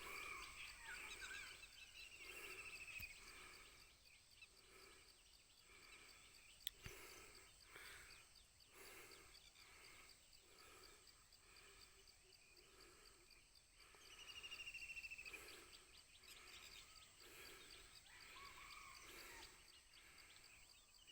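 Faint wild outdoor ambience: a bird gives a rapid trill that slides down in pitch, three times, over a steady high buzz of insects. A single sharp click sounds about seven seconds in.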